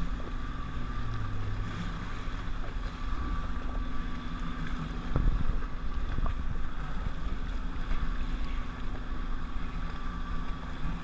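Jet ski engine running steadily, with wind buffeting the microphone and a thump about five seconds in.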